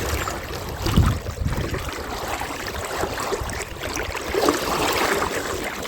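River water rushing and splashing around the legs of someone wading upstream against a strong current, with a low thump about a second in.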